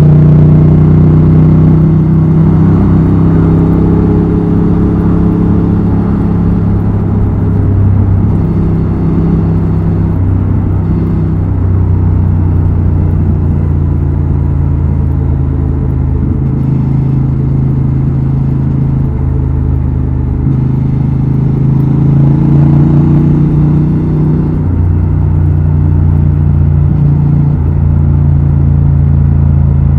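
Honda Transalp XL750's parallel-twin engine and exhaust running under way, the engine note stepping up and down several times as the throttle and gears change.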